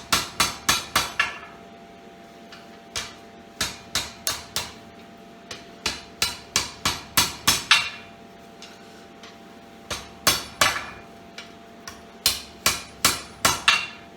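Blacksmith's hand hammer striking hot square steel bar on an anvil in quick bursts of several blows a second, each strike ringing briefly, with short pauses between the bursts.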